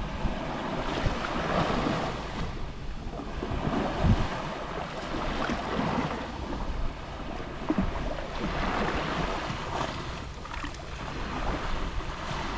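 Gentle Mediterranean waves lapping on the shore, washing in and drawing back every few seconds, with low rumbles of wind on the microphone.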